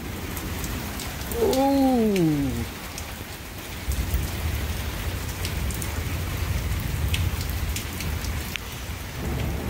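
Steady rain falling, with sharp drops ticking close by. About a second and a half in, a person's voice gives a single drawn-out sound that rises and then falls in pitch, and from about four seconds in a low rumble sets in under the rain.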